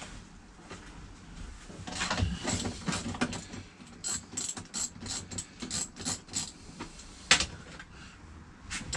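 Ratchet wrench with a 17 mm socket clicking in quick runs as seat bolts are undone, with one sharper click near the end.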